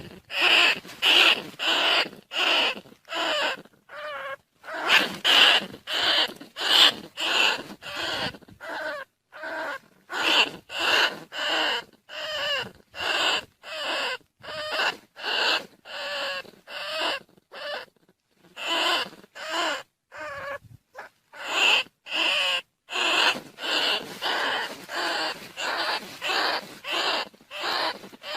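Recorded rat squeals used as a lure call for rice-field rats and bandicoot rats: short, high, wavering squeals repeated about twice a second, with a few brief pauses.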